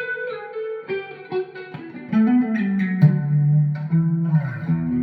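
Clean electric guitar, an ESP E-II Horizon with EMG pickups, played through delay, reverb and chorus: picked notes ring on and blend into each other. Lower notes come in about two seconds in and are the loudest part.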